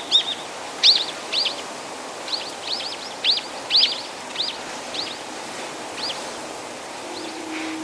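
A small bird calling in short, high chirps, about a dozen, coming quickly in the first half and more sparsely near the end, over a steady hiss of blizzard wind.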